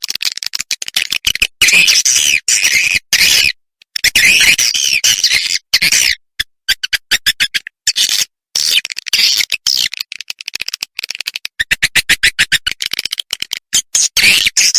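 Swiftlet chirps and twittering from a swiftlet-house lure call of the roosting-call kind. It comes in dense, rapid, high-pitched bursts broken by short silent gaps.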